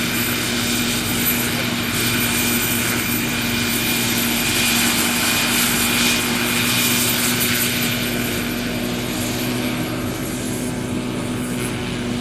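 Radio-controlled scale model helicopter running: a steady drone from its motor and rotor with a thin high whine above, easing off a little near the end.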